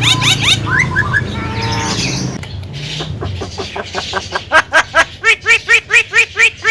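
Javan myna (jalak kebo) singing a varied chattering song. It opens with fast repeated rising notes, breaks into a short buzzy trill, then runs sharp clicks into a loud, evenly repeated series of notes about four to five a second.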